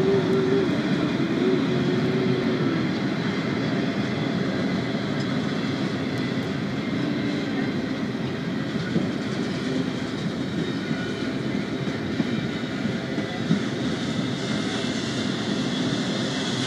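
Double-stack intermodal freight train's loaded well cars rolling past: a steady rumble of steel wheels on rail, with a few sharp clicks in the second half.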